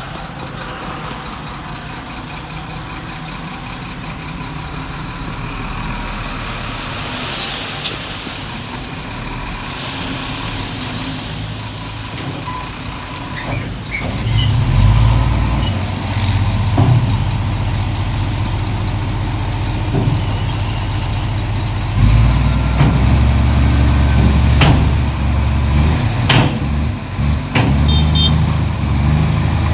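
Heavy diesel earthmoving machinery working: a diesel engine runs steadily, then comes in much louder and deeper about halfway through, and louder again later, as if under load. Scattered sharp metallic clanks sound over it.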